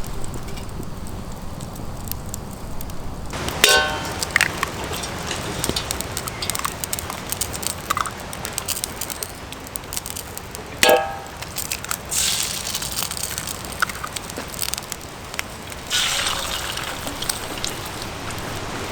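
Wood fire crackling under a pan, with two sharp metallic clinks that ring briefly, about four and eleven seconds in. Eggs hiss and sizzle in hot olive oil, growing louder around twelve and sixteen seconds in.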